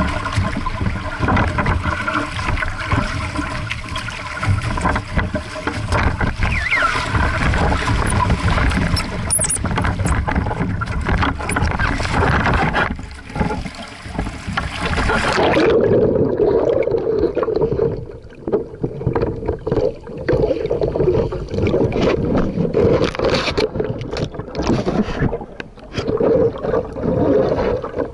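Wind buffeting the microphone and water rushing and splashing around a small sailing dinghy in strong wind. About halfway through, the sound abruptly turns muffled and dull, losing its hiss, and it keeps coming in gusty surges.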